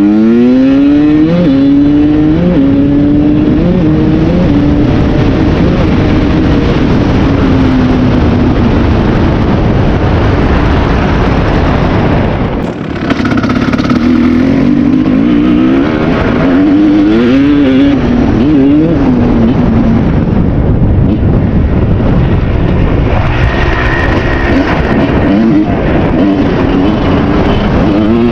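2001 Kawasaki KX250's single-cylinder two-stroke engine, fitted with its stock OEM silencer, being ridden hard. It revs up sharply at the start and holds high revs, then drops off briefly about twelve seconds in. After that the revs rise and fall repeatedly.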